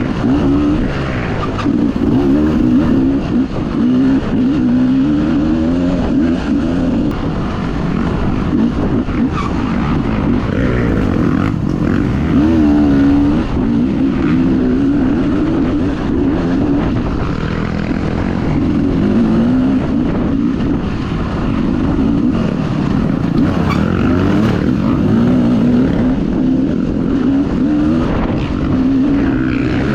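Dirt bike engine running hard on a race track, its pitch rising and falling constantly as the rider works the throttle and gears, over rushing noise.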